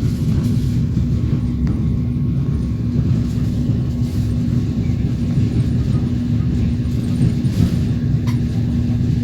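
Passenger train running along the track, heard from inside the carriage: a steady low rumble of wheels on rails with a steady hum through it and a couple of faint clicks.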